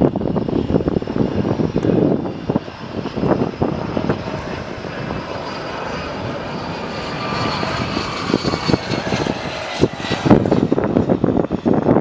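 Gulfstream G100 business jet's twin turbofan engines passing on its landing arrival: a rushing roar with a high whine that slowly drops in pitch. Gusts of wind hit the microphone near the start and near the end.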